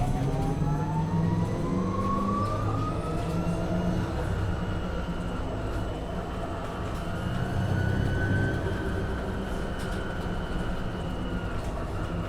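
MAN Lion's City hybrid bus's electric drive whining as the bus accelerates, heard from inside the bus: the whine rises in pitch for about four seconds, then holds nearly level, peaking slightly near the eight-second mark, over the low steady running of the diesel engine.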